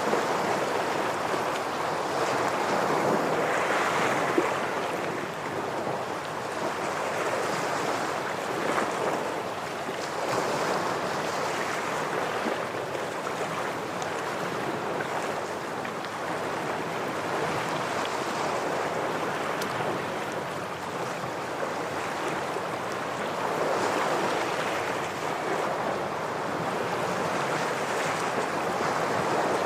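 Ocean waves breaking and washing against shoreline rocks, the surf swelling and easing every few seconds.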